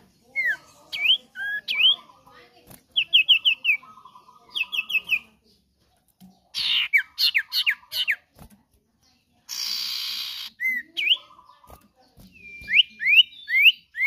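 Common iora singing: series of short, sharply rising whistled notes, three to five in quick succession, repeated with short pauses between them. A harsh, noisy rasp lasting about a second comes about ten seconds in.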